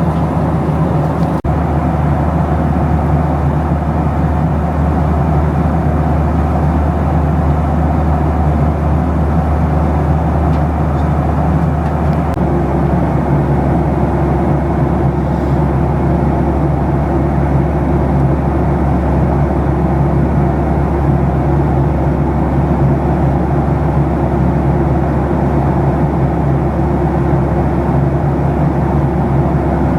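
Boeing 737-700 cabin noise in flight: the steady, loud drone of the CFM56 engines and the airflow. About twelve seconds in, the low rumble and the engine hum shift in pitch and stay there, a change in engine power.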